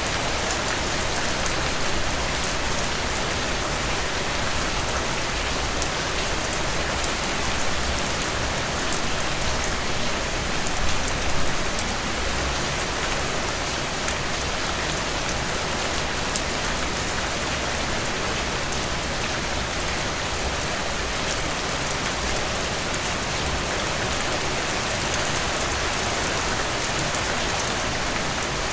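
Steady rainfall pattering on surfaces, a dense even hiss with many individual drop ticks, swelling slightly for a moment about ten seconds in.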